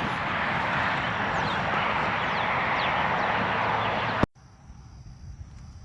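A loud, steady rushing noise that cuts off suddenly about four seconds in. A much quieter night background follows, with a thin, steady high drone like insects.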